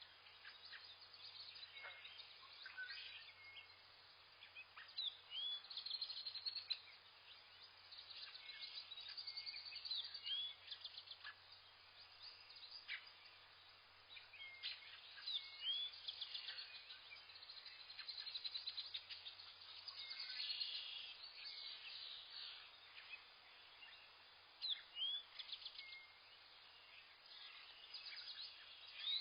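Several small birds chirping and calling in a forest: short rising whistled notes and quick trills, overlapping and coming in irregular clusters, with a faint low hum underneath for most of it.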